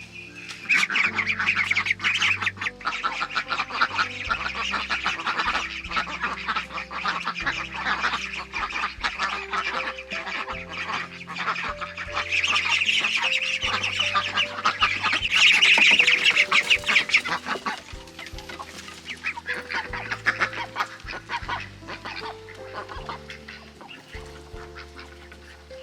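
A flock of ducks quacking busily, loudest in the middle, over background music with steady held chords.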